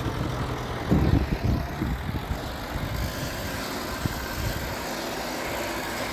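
Diesel engine of heavy earthmoving machinery running steadily, with a cluster of heavy low knocks about a second in and a single sharp knock a little after four seconds.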